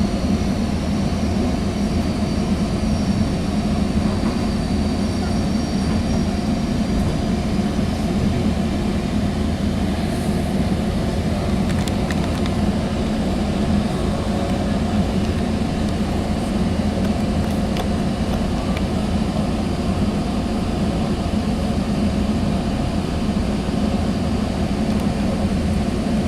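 Steady low rumble inside a Sounder commuter rail passenger coach, with a faint high whine in the first several seconds.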